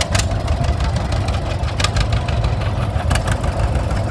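Vintage farm tractor engine running at low revs with a low, knocking rumble, broken by scattered sharp clicks.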